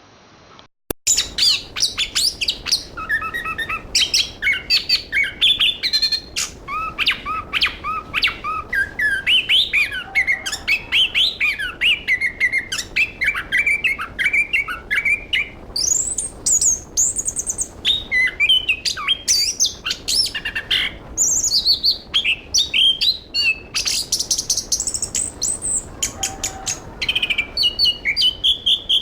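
Chestnut-capped thrush (anis kembang, Zoothera interpres) singing a continuous, rapid, varied song of whistled phrases, trills and sharp clicks. It begins about a second in after a brief silence.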